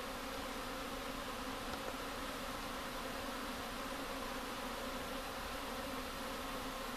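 Dense, steady buzzing of a mass of honey bees flying out of a top-bar hive, the low hum of many wingbeats blending into one drone; the owner takes the heavy outflow for a colony about to swarm.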